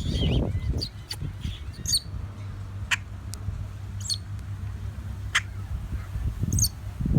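A bird calling at close range: a string of short, high squeaky calls and sharp clicks, a few seconds apart, over a steady low rumble.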